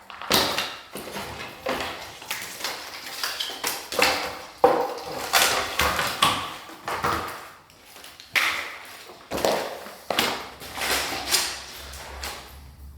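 Irregular clattering and knocking of demolition rubble and broken building material being handled and cleared, several knocks a second with the occasional ringing ping.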